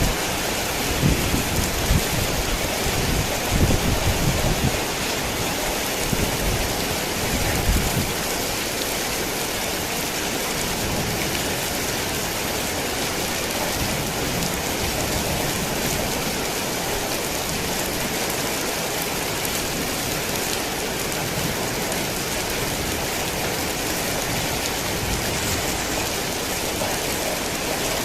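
Heavy rain falling steadily in a dense, even hiss. A low rumble of thunder sounds under it for roughly the first eight seconds, then fades, leaving only the rain.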